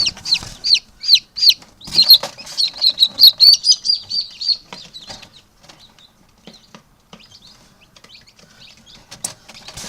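Newly hatched chicks peeping: a fast run of loud, high peeps that each drop in pitch, thinning out after about four and a half seconds to a few soft peeps with light clicks and rustling.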